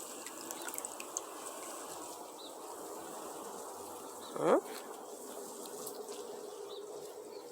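Water trickling and splashing onto plants as they are watered, a steady soft hiss. About four and a half seconds in, a brief, loud sound rises sharply in pitch.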